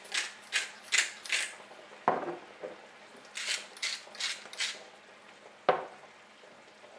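Hand-turned spice mill grinding seasoning over a pan: short rasping twists, about three a second, in one run at the start and another about halfway through. Two single sharp knocks come between them.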